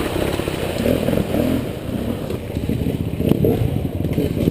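Dirt bike engine running and revving, with a single sharp knock about three seconds in.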